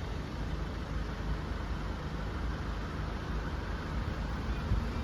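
Steady low rumble of road vehicle engines running at the level crossing, with no distinct events.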